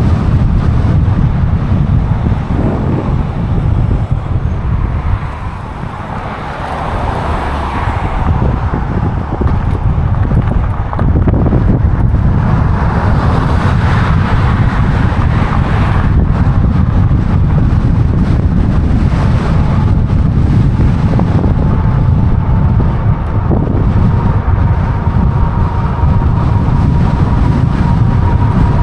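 Wind rumbling over the microphone of a riding e-bike, with road traffic noise and passing cars. A thin steady whine comes in about two-thirds of the way through.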